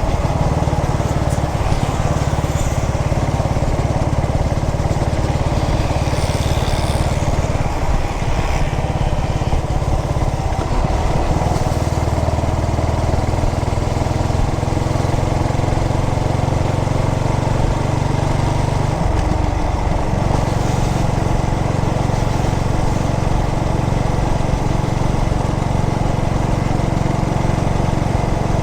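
Yamaha SR400's air-cooled single-cylinder four-stroke engine running steadily, with a brief change in the engine note about nineteen seconds in.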